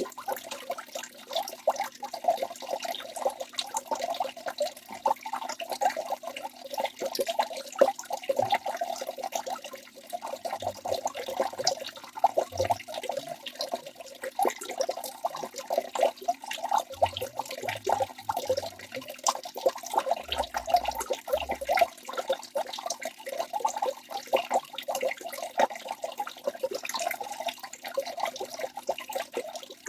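Waterfall rushing steadily: a continuous, even splashing of falling water.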